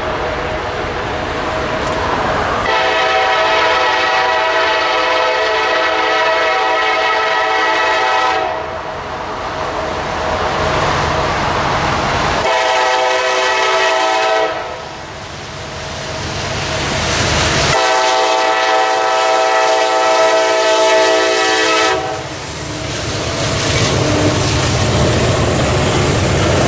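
Diesel locomotive's multi-chime air horn blowing three blasts (long, short, long) over the steady rumble of a passing train. The rumble of the locomotive and its wheels on the rails grows heavier after the last blast.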